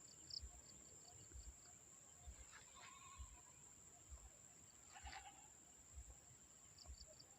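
Near silence, with two faint distant animal calls, about two and a half seconds in and again about five seconds in, and a few faint high chirps.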